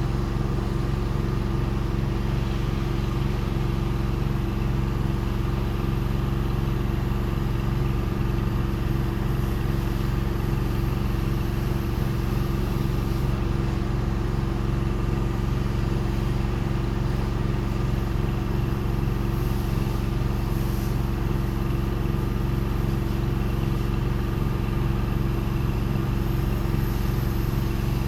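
Pressure washer's engine running steadily at a constant speed, with no change in pitch, while soap is sprayed through a downstream injector.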